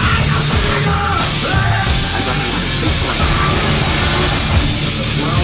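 Live heavy rock band playing loudly, with a driving beat of low-end hits under dense, distorted sound.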